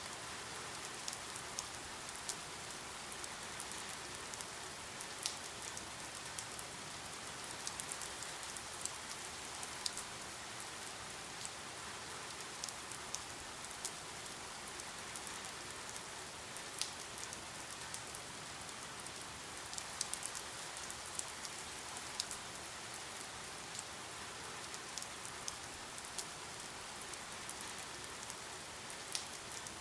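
Steady rain falling, an even hiss with many separate drops pattering and ticking on a surface throughout.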